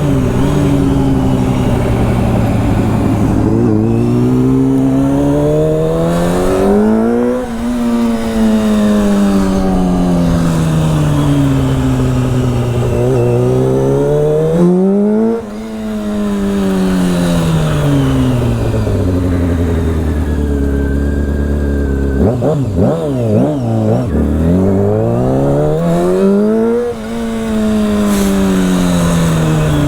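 Motorcycle engine pulling through the gears, its pitch climbing and then dropping at each upshift, easing down to a low, steady idle about two-thirds in, then accelerating away again. Wind rush on the rider's microphone runs under it.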